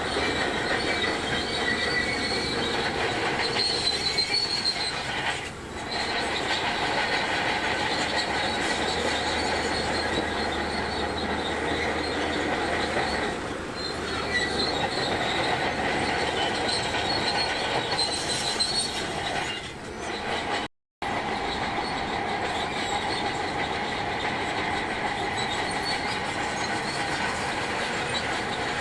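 Shantui DH17C2 crawler bulldozer working, its diesel engine running under a continuous metallic squeal and clatter from the steel tracks. The sound drops out for a split second about two-thirds of the way in.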